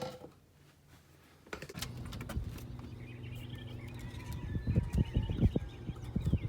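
A low steady hum, like a motor or vehicle running, starts about a second and a half in, with several dull thumps near the end and birds chirping.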